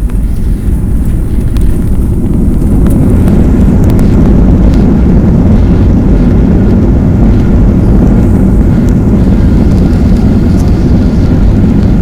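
Loud, steady roar of an airliner's engines and rushing air heard inside the cabin during landing. It builds over the first few seconds and then holds steady.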